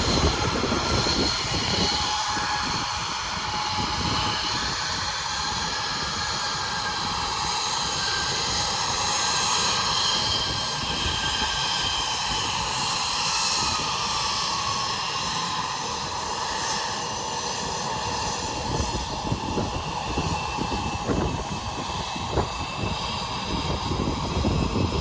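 Embraer E175 regional jet's turbofan engines whining as it taxis, with several high steady whine tones, some sliding slowly down in pitch midway. Wind buffets the microphone.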